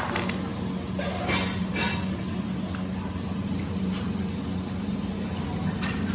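A motor running steadily with a low hum. There is a sharp click at the very start and two short hisses about a second and a half in.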